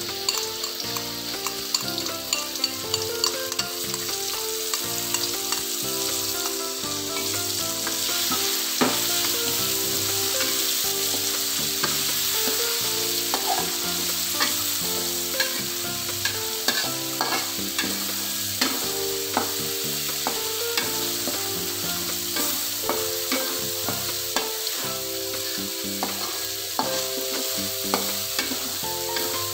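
Ground spice paste sizzling as it is sautéed in hot oil in an aluminium wok, with a metal spatula scraping and knocking against the pan as it is stirred.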